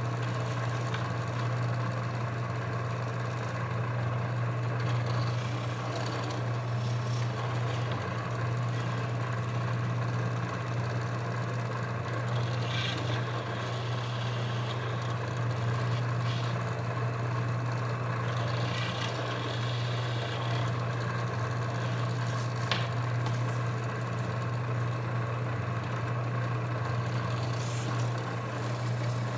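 Drill press motor running steadily with a constant low hum while holes are drilled in plywood. A few brief scrapes and a sharp click come from the work.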